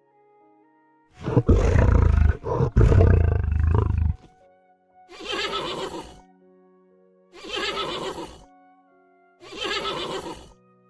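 A large animal's deep roar lasting about three seconds, followed by three shorter whinny-like calls spaced about two seconds apart, over soft background music with sustained notes.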